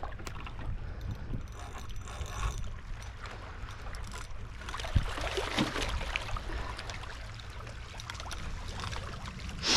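Fishing reel being cranked in, with a mechanical clicking and whirring, as a hooked bull red drum is brought in. Water and wind noise lie under it.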